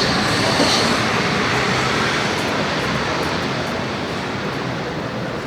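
Busy city-street traffic noise: a steady wash of passing vehicles that slowly gets quieter.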